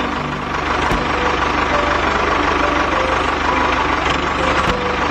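Tractor engine idling with a steady, even knock, with two short clicks, one about a second in and one near the end.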